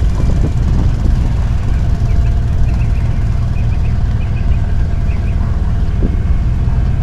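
Sailboat's inboard engine running steadily while motoring away from the dock, a loud low rumble.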